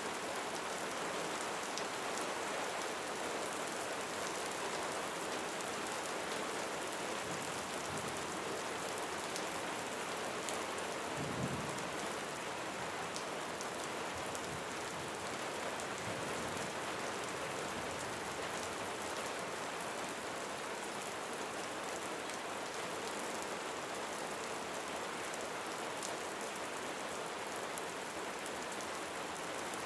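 Steady rain falling on a roof, with a brief low rumble of distant thunder about eleven seconds in.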